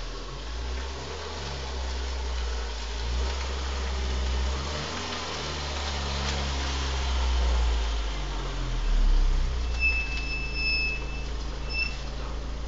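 A Škoda Felicia's engine running at low speed as the car drives slowly up close, a low rumble that swells and eases. About 10 s in, a high electronic beep sounds for about a second and a half, followed by a short second beep near the end.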